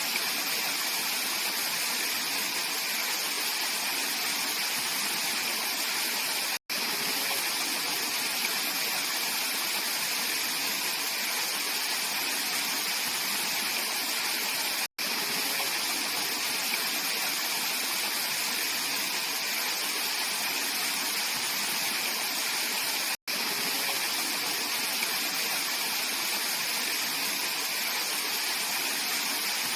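Mountain valley stream flowing, a steady wash of water noise broken by a split-second silence about every eight seconds.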